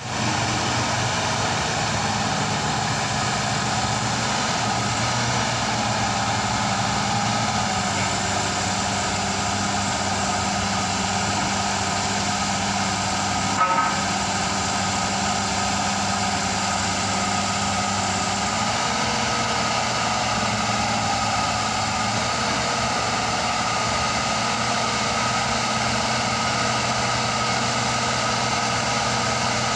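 Borewell drilling rig running steadily, its engine holding one constant note. A single brief sharp knock about 14 seconds in.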